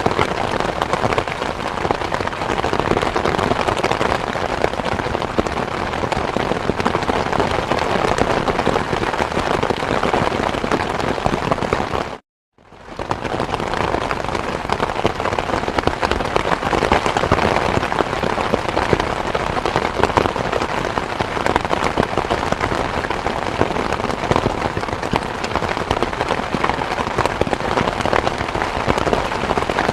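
Steady, dense rain falling, an even hiss of many drops. About twelve seconds in it cuts out to silence for a moment, then fades back in.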